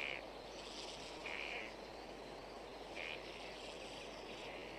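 Short, high calls repeating about once every second and a half, with fainter higher chirps between, over a steady background hiss of natural ambience.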